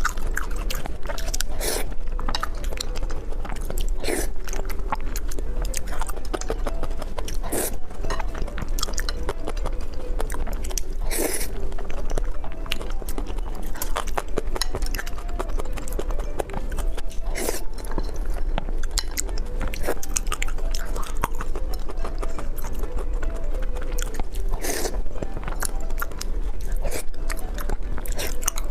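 Close-miked eating sounds of spicy pig brain being chewed: wet mouth clicks and smacks at irregular intervals throughout.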